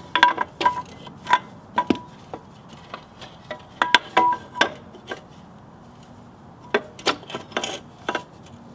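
Metal clanking: a string of sharp knocks and clinks, some with a short ring, as the exhaust pipe of a 1981 Suzuki RM125 two-stroke is worked into place against the bike's frame. The knocks come irregularly, bunched near the start, around four seconds in, and again around seven to eight seconds in.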